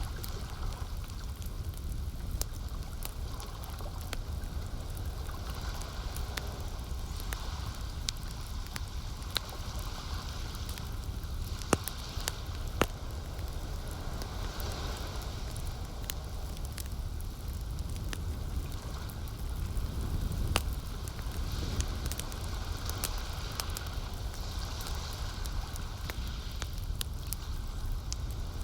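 Campfire crackling, with scattered sharp pops of burning wood, two of them louder near the middle, over soft lapping of lake water and a steady low rumble.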